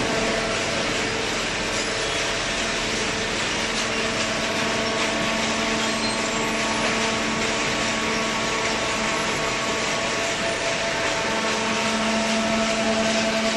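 Waste paper baler running: a steady machine hum with a few constant tones over a wide noise, with no clear strokes or impacts.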